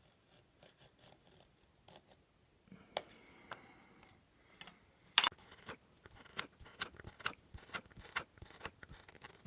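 Woodworking hand tool cutting into wood: irregular sharp clicks and short scrapes. They are sparse and faint at first, then come thick and fast from about three seconds in, with one loud crack a little after five seconds, and stop abruptly at the end.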